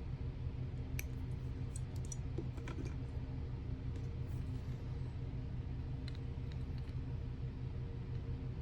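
A steady low hum with a few faint light clicks about one, two and nearly three seconds in.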